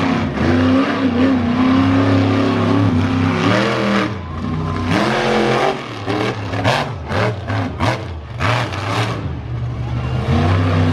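Monster truck engine revving hard, its pitch climbing and dropping, then a string of short, sharp throttle blips between about six and nine seconds in.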